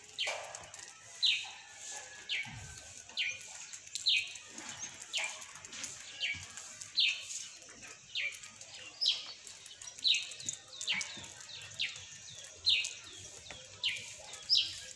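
A bird calling over and over: short, high notes that fall in pitch, about one a second, with fainter calls between them.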